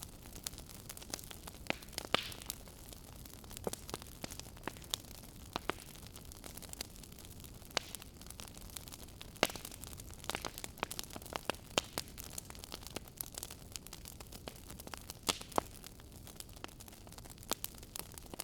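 Wood fire in a fireplace crackling: irregular sharp pops and snaps, several a second, a few louder ones among them, over a steady low hiss.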